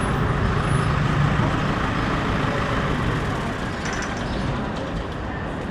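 Street traffic noise: a steady rumble and hiss of passing vehicles that eases off a little in the last couple of seconds.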